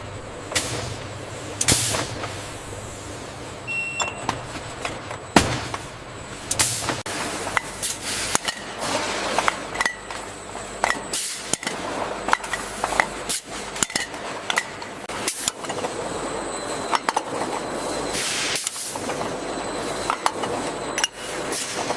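Bottling-line machinery running with a steady mechanical noise, broken by frequent irregular clinks and knocks like glass jars on a conveyor.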